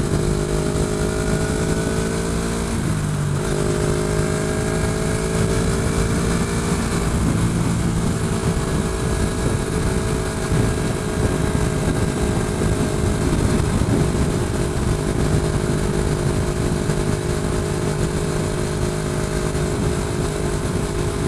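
Motorcycle engine running steadily at highway cruising speed, with wind noise over a helmet-mounted camera; the engine note dips briefly about three seconds in, then holds steady again.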